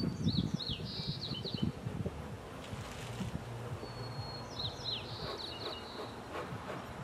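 A songbird sings twice, each phrase a long high whistle followed by a quick run of falling notes. Underneath is the low hum of honey bees around the open hive.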